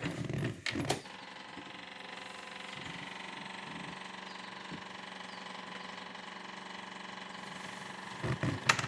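John Deere 2520's three-cylinder diesel engine cranking and catching in the first second, then idling steadily. A few brief louder knocks near the end.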